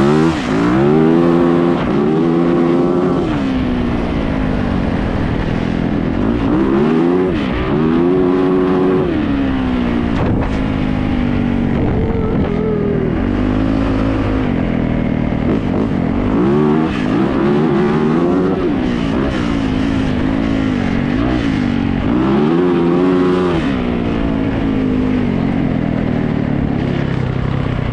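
Yamaha YZ450F single-cylinder four-stroke dirt bike engine being ridden hard, revving up in pitch and easing off again and again as it accelerates and shifts gears.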